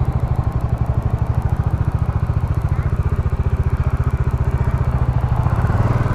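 Motorcycle engine running at low speed with a steady pulsing chug, getting a little louder near the end. It is heard through a lavalier mic inside the rider's helmet.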